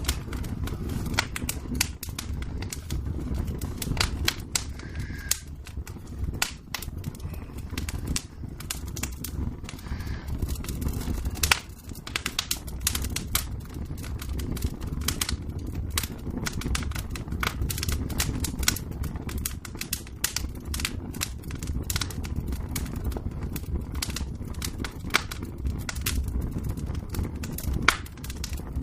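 Wood fire in a fireplace crackling, with irregular sharp pops over a low steady rumble of the flames.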